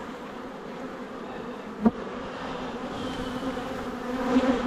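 Honeybees humming around an open hive, a steady buzz of many bees, with a sharp knock about two seconds in.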